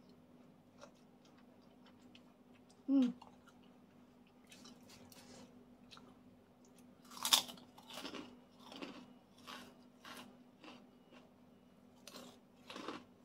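A person chewing and biting food close to the microphone, with a run of crisp, crunchy bites from about seven seconds in. There is a brief voiced hum about three seconds in.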